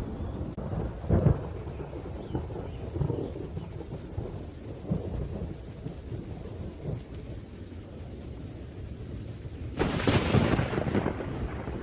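Thunderstorm: continuous low rolling thunder under rain, with a short sharp crack about a second in and a louder crackling thunderclap near the end.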